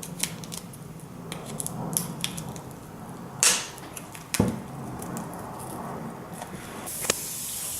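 A plastic wrapper on a bath fizzy is peeled open, with crinkling and small clicks, a louder rip about three and a half seconds in and a thump a second later. A steady hiss starts near the end.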